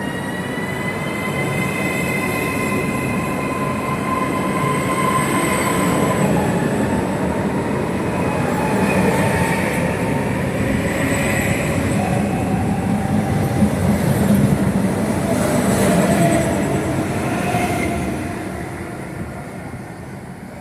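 Train running through a railway station, its rumble building to a peak about two-thirds of the way through and then fading, with a thin high whine in the first few seconds.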